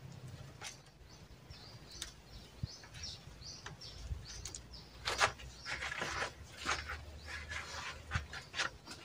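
Birds chirping in a run of short, high, repeated notes. In the second half come a few louder, brief rustling scrapes.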